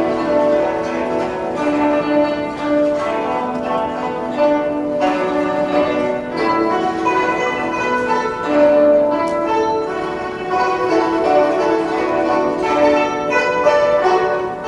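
Guzheng zither ensemble playing a flowing melody of many quick plucked notes.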